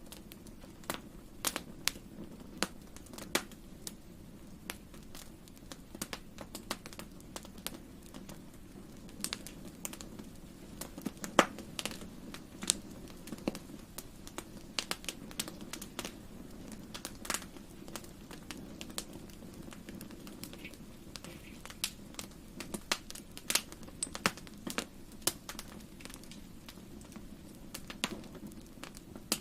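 Wood fire crackling in a fireplace: irregular sharp pops and snaps over a low, steady rumble of the flames, with one louder snap about eleven seconds in.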